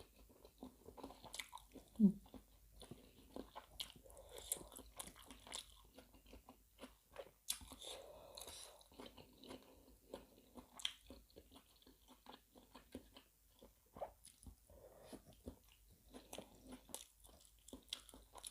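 Close-up mouth sounds of someone eating: many short, crisp crunches and wet chewing of fresh raw vegetables and seafood laab. A brief 'mm' hum comes about two seconds in.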